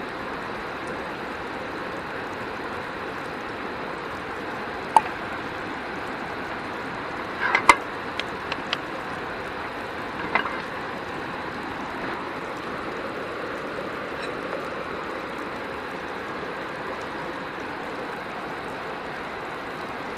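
Steady rushing of a flowing river, with a few sharp clicks and knocks near the middle.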